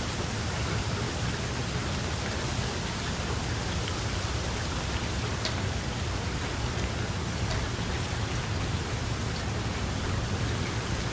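Steady rain falling, with a few separate drop ticks standing out and a constant low rumble underneath.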